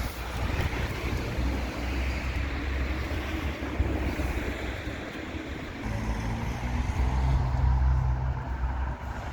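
Street ambience dominated by a motor vehicle running close by: a steady low rumble, with an engine hum that becomes clearer about six seconds in.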